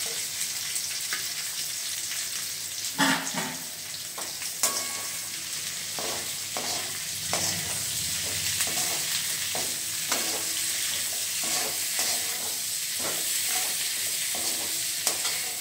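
Chopped onion and curry leaves sizzling in hot oil in a stainless-steel kadai, with a steel slotted ladle scraping and knocking against the pan as they are stirred. Two louder knocks come about three and five seconds in.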